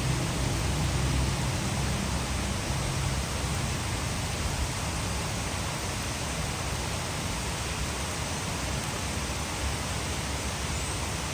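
Heavy rain falling steadily, blended with the rush of water pouring over a hydroelectric dam, an even hiss. A low rumble fades out during the first second or two.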